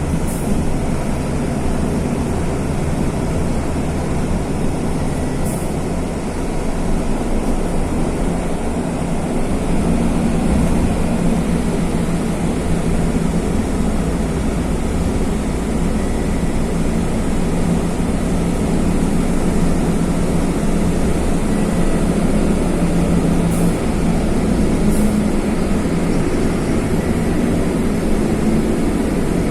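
Mercedes-Benz OF-1519 bus's OM-924 LA four-cylinder turbodiesel running under way, a steady low drone. It dips briefly about six seconds in, then builds up again.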